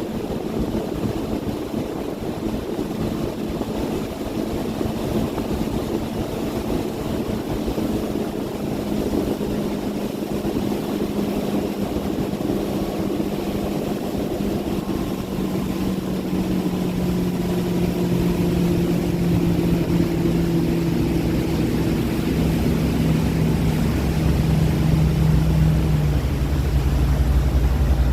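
Motorboat engine running steadily, its hum drifting slightly lower in pitch and growing louder toward the end.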